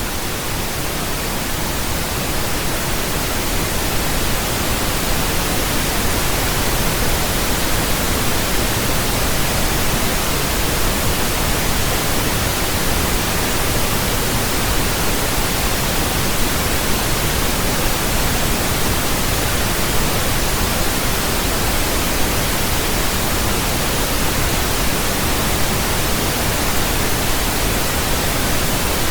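Steady pink noise: an even, flat hiss across all pitches with a deeper rumble beneath, unchanging throughout.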